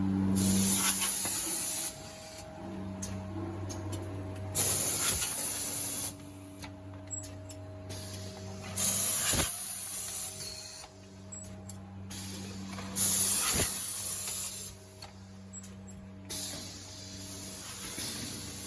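Automatic pouch filling and sealing machine for cooking oil running through its cycle: a steady hum, with a loud burst of hiss about every four seconds, five times.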